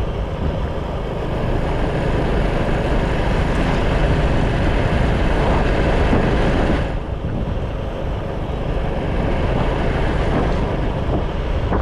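Motorcycle riding noise picked up by a GoPro microphone: a steady rush of wind over the mic mixed with engine and road noise. The high hiss drops away suddenly about seven seconds in.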